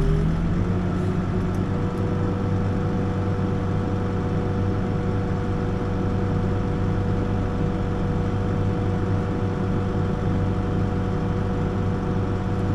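Backhoe's diesel engine running at a steady, slightly raised speed, its pitch stepping up a little at the start and then holding even.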